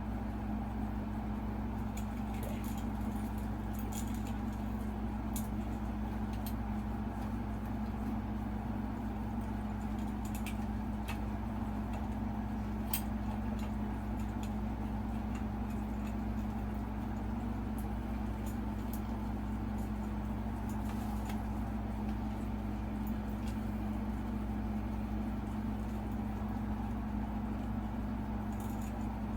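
A steady low hum runs throughout, with scattered faint light clicks and taps from small metal and plastic light-kit parts and wiring being handled.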